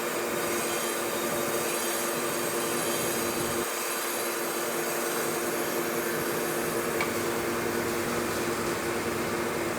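A machine running steadily, a constant whine of several tones over a metallic hiss.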